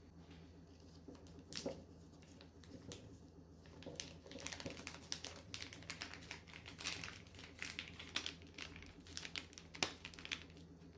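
Irregular crisp crackling and light clicking, sparse at first and dense from about four seconds in until shortly before the end.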